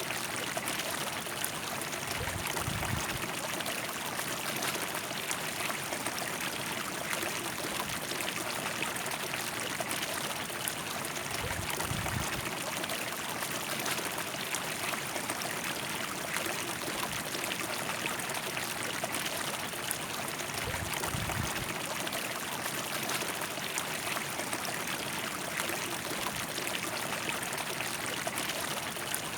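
River water flowing steadily over rocks, a constant rushing and trickling. Three brief low rumbles come through, about nine seconds apart.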